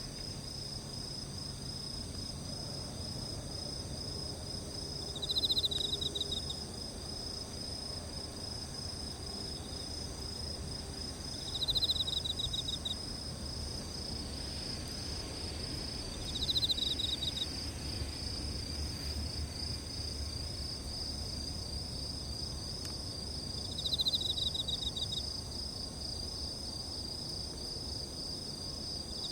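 A chorus of crickets trilling steadily and high, with a louder pulsed chirp of about a second from one insect repeating four times, every five to seven seconds, over a low rumbling background.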